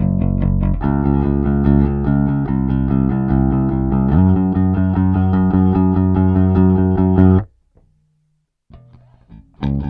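Five-string Music Man StingRay 5HH-style bass with two humbuckers, played with a pick and recorded direct with a flat EQ. It plays quick repeated picked notes, then held notes, stops abruptly about three quarters of the way in, and starts playing again right at the end after a short gap.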